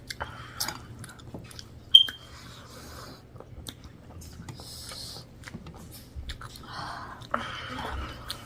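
Close-miked chewing and wet mouth sounds of a person eating a meal of rice and pork, with many small clicks. About two seconds in there is a single sharp clink with a brief ring, like a dish being struck.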